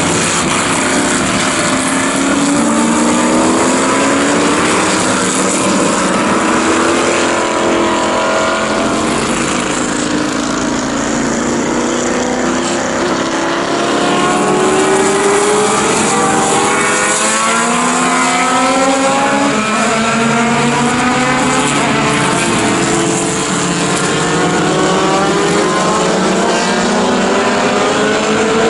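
Several historic sports racing cars' engines accelerating, each pitch climbing and dropping back at upshifts, one car after another, over a steady hiss.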